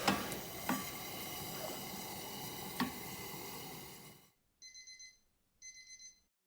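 Background noise with a few faint clicks fades out, and then an electronic alarm beeps in two short bursts of rapid high beeps near the end, the kind of alarm set to wake someone before dawn.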